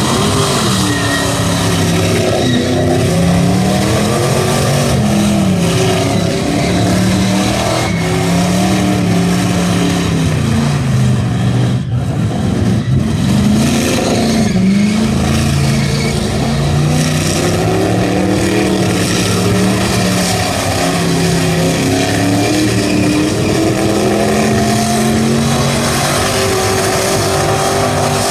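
Chevrolet V8 in a Subaru WRX STi revving up and down continuously through a tyre-smoking skid, its pitch rising and falling over and over. The engine is running poorly from spark scatter off a cracked distributor rotor and won't rev out in second gear.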